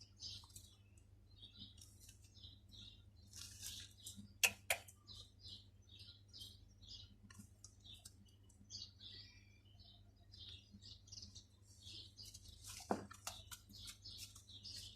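Faint chirping of small birds throughout, with a few sharp clicks about four seconds in and again near the end, as scissors clip a pigeon's flight feathers.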